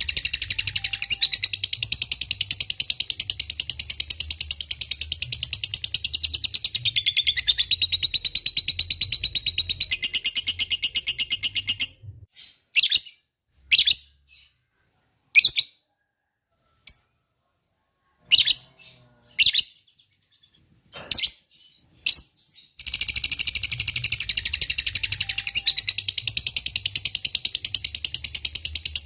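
Lovebird ngekek: a long, rapid chattering trill of high, fast-repeating notes. About twelve seconds in it breaks into scattered single chirps with silent gaps for roughly ten seconds, then the long chatter starts again.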